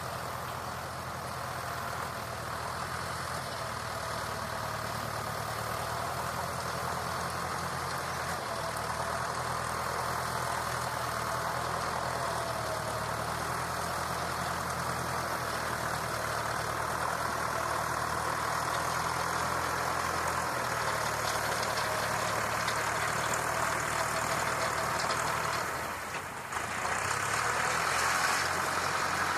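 Massey Ferguson 275 tractor's diesel engine running steadily, its note shifting a few times, with a brief drop about 26 seconds in and a louder stretch after. The owner puts the faltering down to a failing fuel lift pump.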